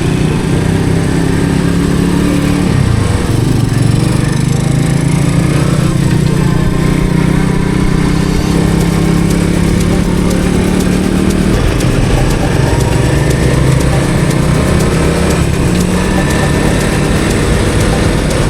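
Honda CT110 postie bike's small single-cylinder four-stroke engine running steadily under way. Its pitch shifts a few times as the throttle and gears change.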